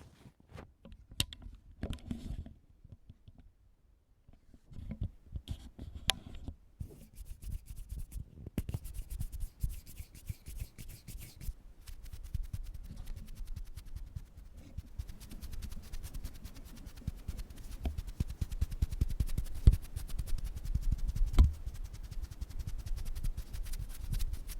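Ear pick scraping and scratching close against a microphone in ASMR ear-cleaning: rapid, dense scratchy strokes with a short lull about three seconds in, then near-continuous scratching with a few louder knocks near the end.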